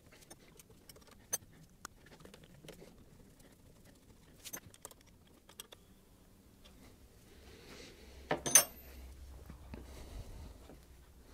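Scattered small clicks and taps of hands handling metal parts and tools, with one sharp metallic clink about eight and a half seconds in.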